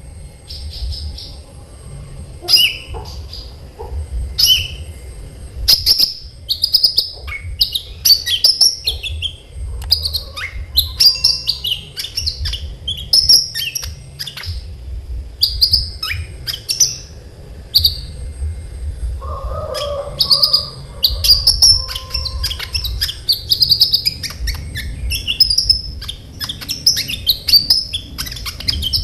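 Kolibri ninja sunbird singing fast, continuous song: rapid sharp high chirps and trills in quick phrases, with a steady low hum underneath.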